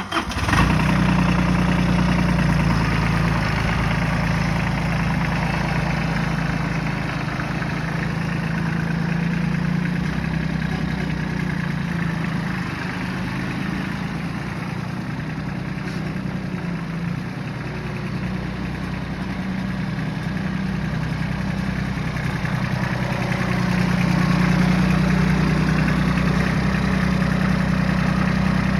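New Holland TC24D compact tractor's three-cylinder diesel engine running at a steady speed, its level swelling and easing a little. The sound starts suddenly at the beginning.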